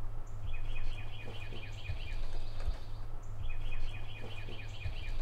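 A bird calling in two rapid runs of short high chirps, about seven a second, each run lasting under two seconds, over a steady low outdoor rumble.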